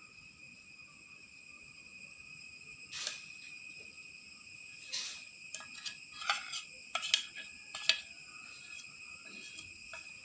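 Steady high-pitched insect chirring, with a handful of light knocks and clicks in the second half.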